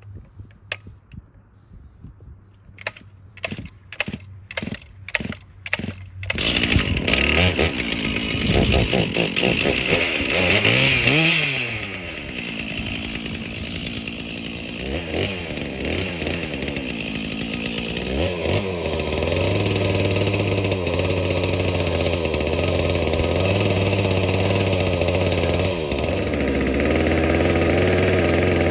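About eight evenly spaced sharp knocks, then a motor-driven tool starts abruptly about six seconds in. Its speed rises and falls several times, then it runs steadily through the second half and stops near the end.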